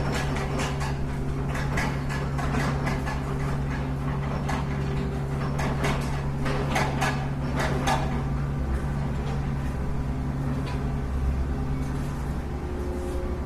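Radio-controlled scale Volvo excavator working: its hydraulic pump runs with a steady hum, dropping off near the end, under frequent clicks, knocks and scrapes of the machine and the material it moves.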